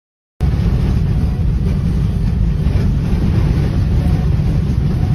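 A moving vehicle's road and wind noise on a dashcam microphone: a loud, steady low rumble that starts abruptly after a brief silence.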